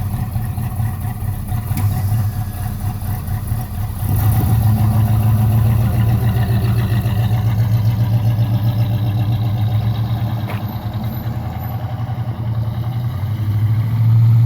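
A Pontiac 400 V8 running steadily in a 1969 Firebird, freshly rebuilt. It gets louder about four seconds in, eases near the end, then swells again.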